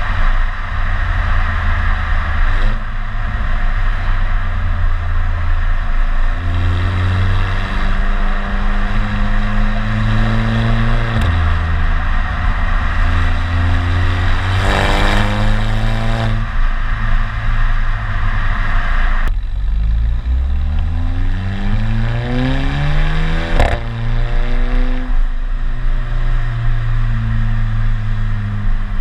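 Volkswagen Golf 7 GTI's turbocharged 2.0-litre four-cylinder and its exhaust, driven under acceleration. The engine note climbs in pitch several times and drops sharply at each gearshift, with the longest, steepest climb about two-thirds of the way through.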